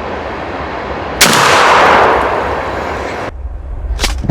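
A passing train's steady rumble, then about a second in a single loud shotgun shot at a turkey, echoing and fading for about two seconds before cutting off. A sharp click follows near the end.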